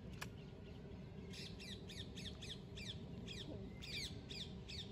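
Birds calling in two quick runs of short falling notes, about five a second, with a single click just after the start.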